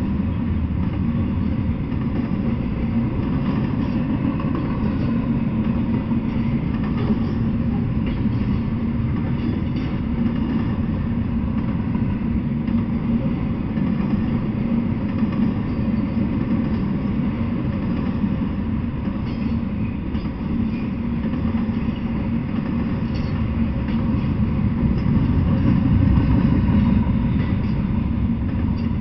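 Double-stack intermodal freight train rolling past on the rails: a steady, deep rumble of wheels and well cars, swelling a little near the end.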